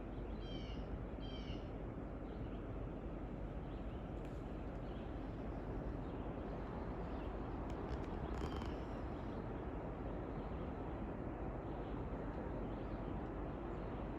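A bird calls twice in quick succession near the start and once more about eight seconds in, each a short call, over a steady outdoor background hiss.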